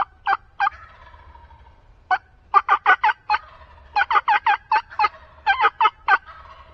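Turkey yelping: several quick runs of sharp, evenly spaced notes, about five a second, loud and close.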